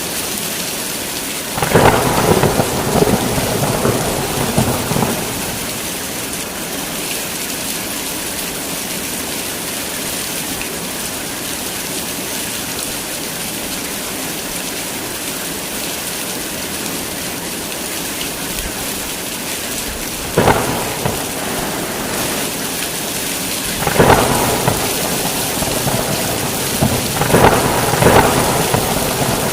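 Heavy rain falling steadily, with peals of thunder about two seconds in and again several times in the last ten seconds.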